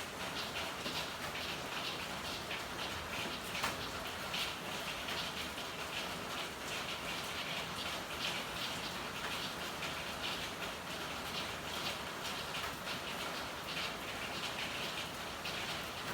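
Steady rain falling, with a dense, irregular pattering of drops and one sharp tap about four seconds in.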